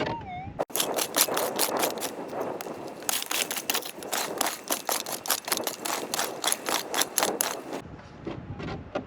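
A metal detector's warbling target tone, cut off after about half a second, then a rapid, irregular run of sharp strikes and scrapes as a pick digs into stony ground to recover the target.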